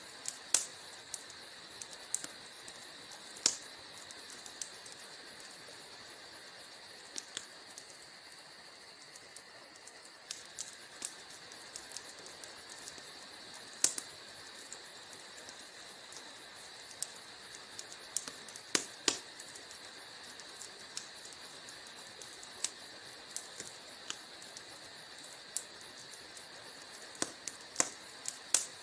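Wood fire crackling in a fireplace: irregular sharp pops and snaps from the burning logs, a couple of them louder about 14 and 19 seconds in, over a steady faint hiss.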